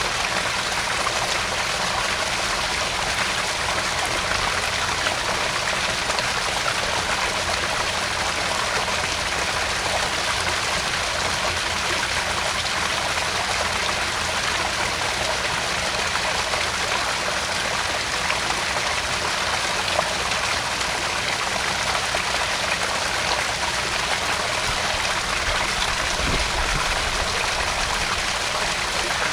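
Small garden pond waterfall splashing and trickling steadily into the pond.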